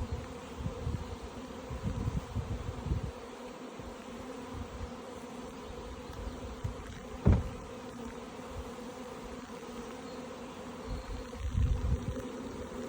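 A mass of honeybees buzzing steadily around an opened hive. Low rumbles come and go, and a single sharp knock sounds a little past halfway.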